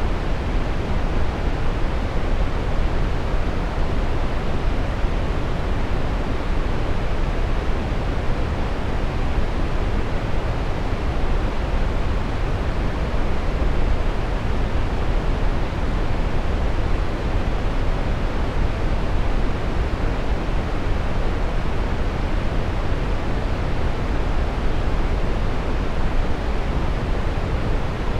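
Steady brown noise: an even, unchanging rush of noise, strongest in the bass and falling off toward the treble, with no events in it.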